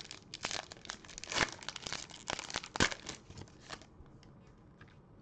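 Foil wrapper of a trading-card pack crinkling and tearing as it is ripped open, a dense run of sharp crackles that stops about four seconds in.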